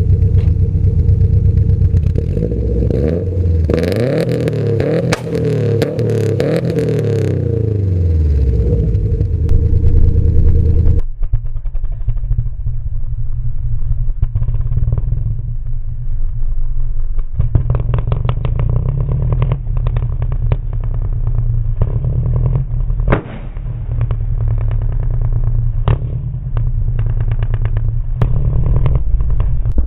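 A 2006 Subaru Impreza WRX STI's turbocharged flat-four through an HKS aftermarket exhaust, revved up and down repeatedly. About eleven seconds in the sound changes abruptly to a duller, steadier engine note broken by scattered sharp pops from the exhaust.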